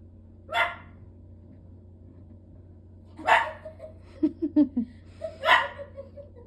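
A dog barking three short, sharp barks. Between the second and third bark it gives a quick run of short, higher yips.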